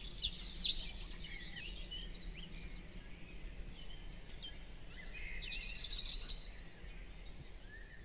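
Birds singing, a mix of short chirps and whistled notes, loudest about half a second in and again around six seconds in, where a fast trill of repeated notes sounds.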